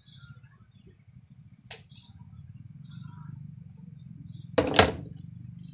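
Small birds chirping over and over above a steady low hum. There is a faint click a little under two seconds in, and a sudden loud noise lasting about a third of a second near the end, the loudest sound.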